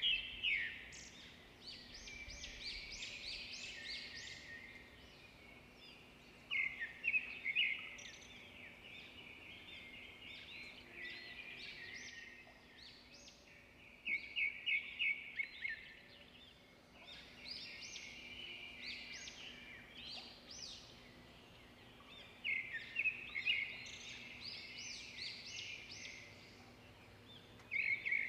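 A bird singing a phrase of rapid, chattering high notes, repeated about every seven to eight seconds, five times. A faint steady low hum lies beneath.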